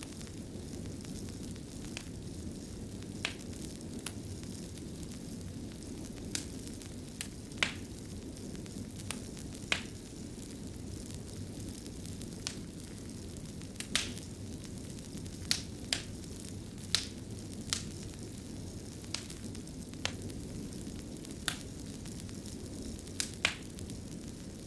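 Wood fire burning in a stone fireplace: a steady low rumble of flames with scattered sharp crackles and pops.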